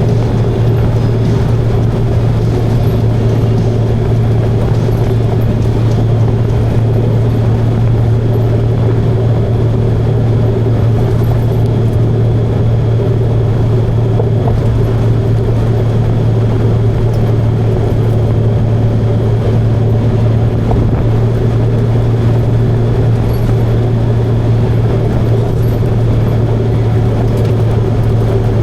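Motorcycle engine running steadily at cruising speed, a constant low drone, with wind noise over it.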